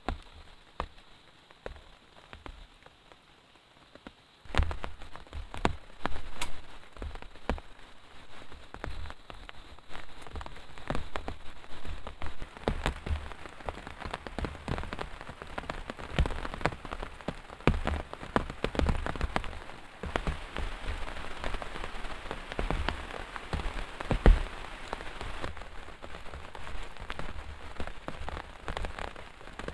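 Heavy rain: a few scattered drops at first, then about four and a half seconds in the rain suddenly comes down hard, a dense stream of individual drop hits with low thuds that keeps building.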